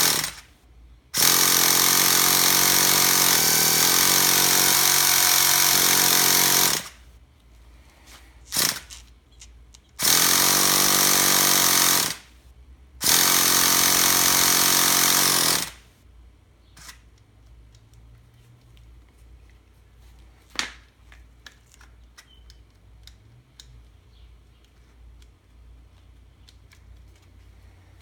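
Traxxas T-Maxx 3.3 nitro engine being spun by its electric starter in repeated bursts that do not catch: a steady whirring drone lasting several seconds at a time, with a long run near the start, one very short blip, and two more runs. The engine will not start. After the last burst there are only scattered small clicks of handling.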